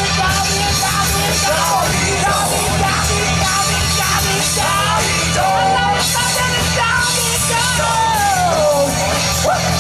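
Live rock band playing loudly, with a singer's voice over the band, sliding down in pitch on long notes near the end.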